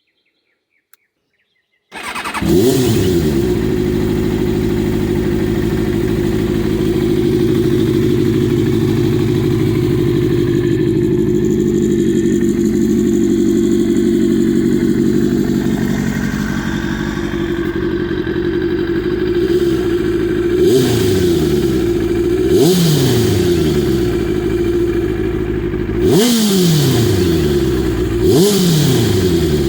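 Kawasaki Ninja ZX-6R's 600 cc inline-four motorcycle engine starting about two seconds in, flaring up and settling into a steady idle, then revved in four short throttle blips near the end, through an exhaust the rider thinks is probably aftermarket.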